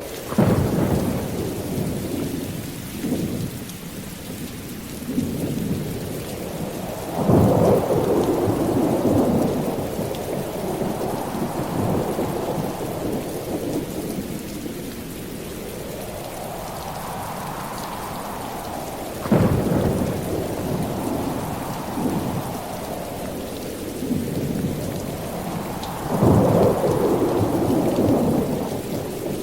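Steady rain with low rolls of thunder swelling up several times, one beginning with a sharp crack.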